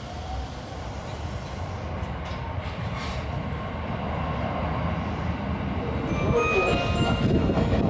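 A train running into or through the station, its rumble growing steadily louder. Several high steady tones join in about six seconds in.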